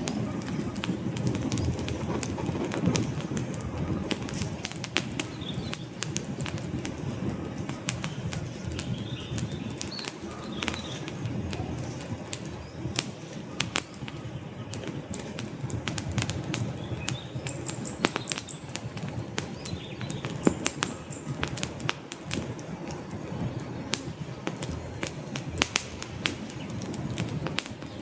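Wood fire burning in a fireplace: a steady low rush of flame with frequent sharp crackles and pops from the logs.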